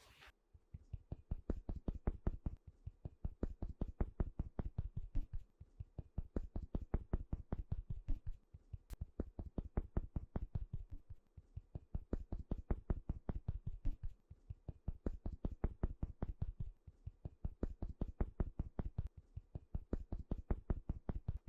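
Rapid rhythmic tapping on a watermelon's rind while blending thick cream into it, several dull taps a second in runs of about two seconds with short pauses between.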